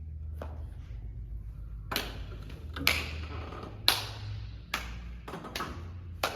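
A series of sharp knocks, about seven, spaced unevenly at roughly one a second, over a low steady hum.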